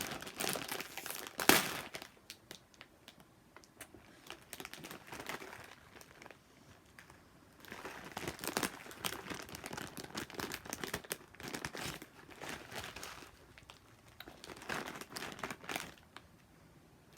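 Crinkly plastic wrapper of a dry ramen snack pack being squeezed and handled in several bouts as the noodle block inside is crushed. One sharp, louder crack comes about a second and a half in.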